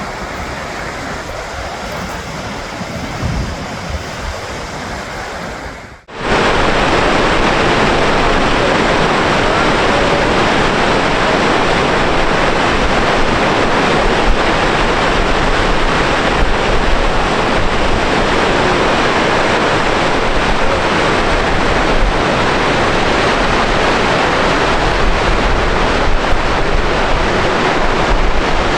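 Steady rush of the Gullfoss waterfall's falling water. About six seconds in it cuts out abruptly and comes back louder and fuller, with more hiss up high.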